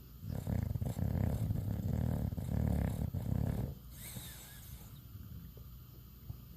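Bulldog snoring: one long, rough snore lasting about three and a half seconds, then quieter breathing.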